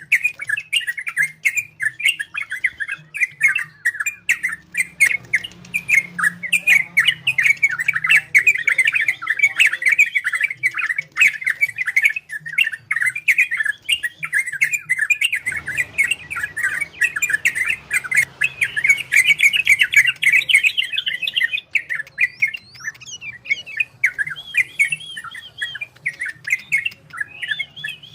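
Trucukan bulbul singing a fast, nearly continuous chattering warble of quick bubbling notes, breaking into shorter separate phrases near the end.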